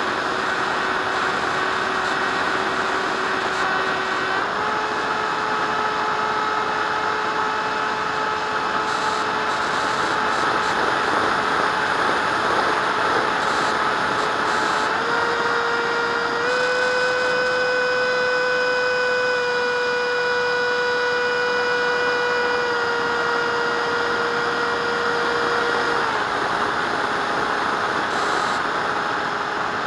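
Electric ducted fan jet whining over a rushing hiss, its pitch stepping up and down with the throttle: it rises twice, is highest from about halfway through for a few seconds, then steps back down.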